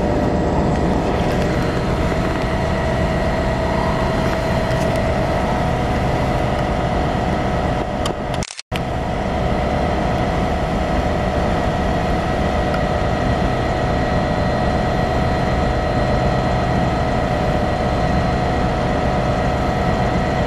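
Hitachi Class 800 train at the platform: a steady mechanical hum with a constant whine on top. The sound cuts out for a moment about eight and a half seconds in.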